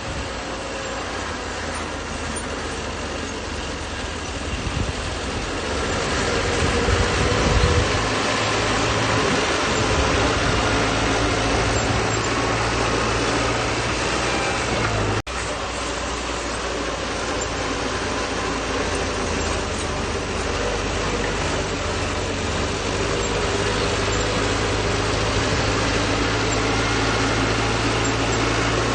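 Bulldozer's diesel engine running steadily while working. It grows louder a few seconds in, and has a brief break about halfway through.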